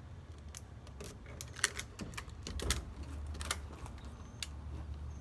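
Rubber bands being stretched and snapped one after another onto a watermelon: a string of irregular sharp snaps and clicks.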